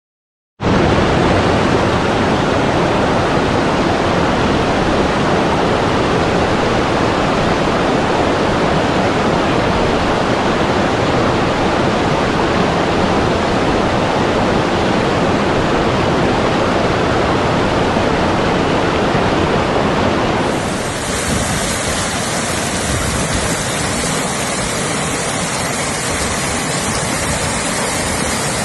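Rushing water, a steady full hiss. About 20 seconds in the sound changes abruptly to a slightly quieter, brighter hiss.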